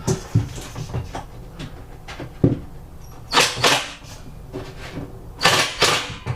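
Knocks and clunks inside a cabinet, with two pairs of short scraping rushes about halfway through and near the end, as a screw is fastened up into the countertop from underneath.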